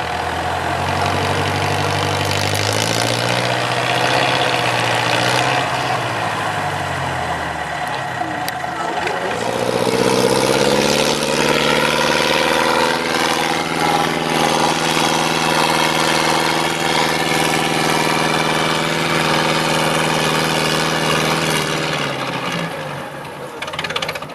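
IFA W 50 off-road truck's engine working under load: the revs climb a few seconds in, drop back around eight seconds, then rise again and hold high and steady before falling away near the end.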